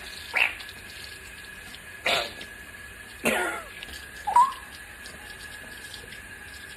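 A pet parrot making four short, raspy cough-like calls, the last a brief rising whistle. A faint steady high-pitched whine runs underneath.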